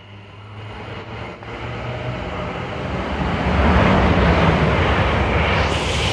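Trains moving through the station: the low drone of Class 73 locomotive 73236 pulling away, joined by a Class 800 train whose rushing wheel and rail noise builds, loudest about four to six seconds in, with a high hiss rising near the end.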